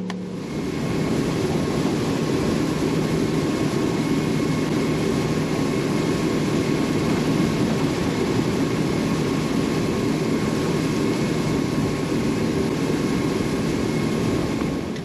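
Bass boat's outboard motor running at speed: a loud, steady rush of engine and water noise that starts about half a second in and holds level throughout.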